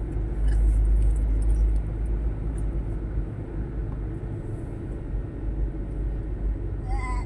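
Steady low rumble of a running motor vehicle, heaviest in the first couple of seconds.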